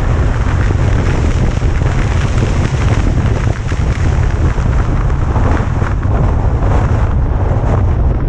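Heavy wind buffeting the microphone, a loud, steady rumble deepest at the bottom, over the faint noise of a vehicle driving downhill.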